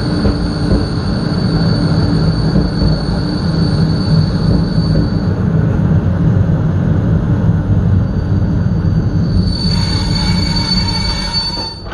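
Passenger train rumbling over the rails as it brakes into a station, with a thin high squeal. About two-thirds of the way in this grows into a ringing, many-toned brake screech, which cuts off at the end as the train comes to a stop.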